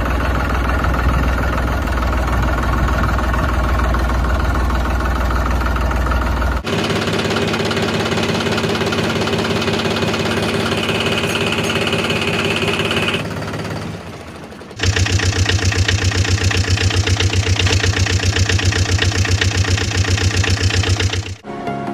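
Tractor engines running in three separate stretches that change abruptly, the last with a fast, even chugging pulse.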